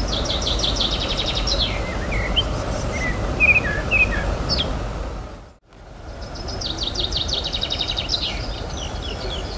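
Outdoor ambience: a steady low rumble with a songbird singing a fast trill twice, with scattered chirps in between. The sound briefly fades out and back in a little past the middle.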